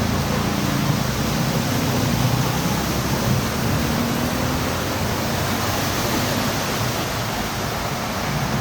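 Heavy rain pouring down in a steady, even hiss, with a low hum underneath during the first half.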